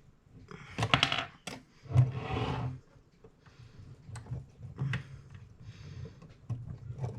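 Small metal clicks and taps from clock movement parts (wheels and plates) being handled and fitted during reassembly, with a few longer rustling noises in between.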